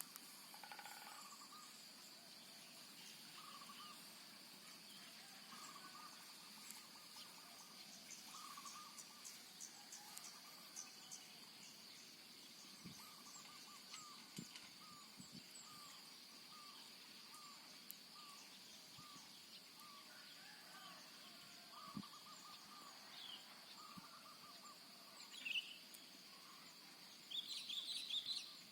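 Faint morning countryside ambience: a steady high insect drone under repeated short bird calls, with a louder flurry of bird chirping near the end.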